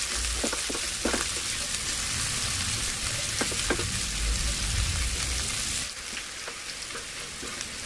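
Sliced shallots, garlic, and red and green chilies sizzling in a little hot oil, with a spatula scraping and tapping the pan now and then as they are stirred. The sizzle gets quieter about six seconds in.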